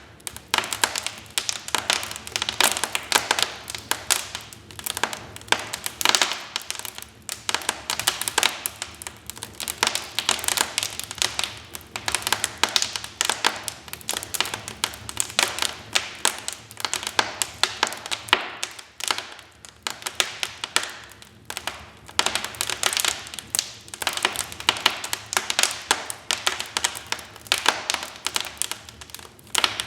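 Wood fire crackling in a fireplace: a dense, irregular run of sharp pops and snaps, thinning briefly a little past halfway.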